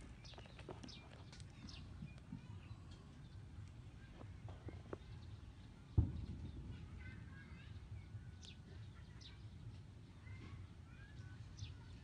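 Quiet background with a steady low rumble, faint scattered bird chirps, and a single sharp thump about halfway through.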